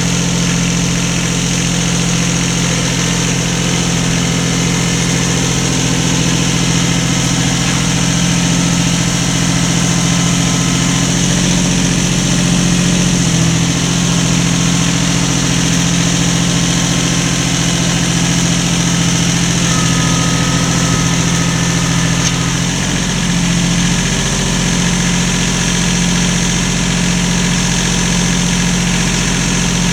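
An engine or motor running steadily at constant speed, with a low even hum; the pitch shifts slightly about 22 seconds in.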